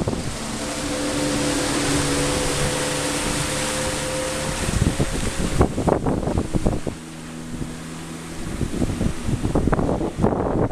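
Rigid inflatable boat under way: a steady outboard engine drone under heavy wind noise on the microphone. About halfway through come irregular thumps and splashing, typical of the hull banging over waves.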